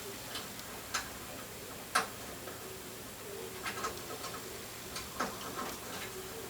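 A few sharp, irregularly spaced small clicks and taps from handling the tiny front-panel header connectors against the motherboard pins and case, the loudest about two seconds in.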